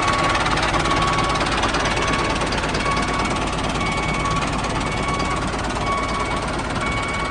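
Small motor of a DIY mini tractor running with a steady, dense mechanical rattle, and a short high tone recurring about once a second.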